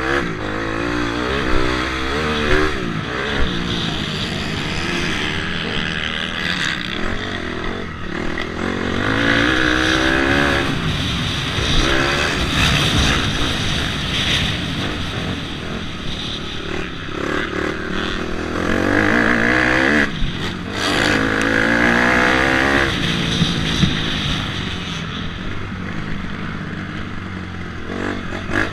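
Dirt bike engine revving hard and backing off over and over, its pitch climbing and dropping several times as it accelerates and shifts.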